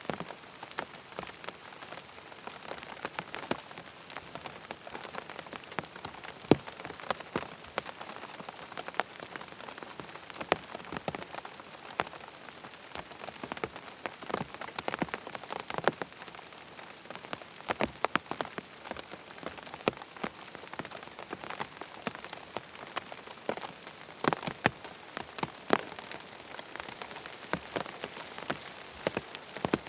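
Steady rain falling on a surface, with many sharp, irregular ticks scattered throughout.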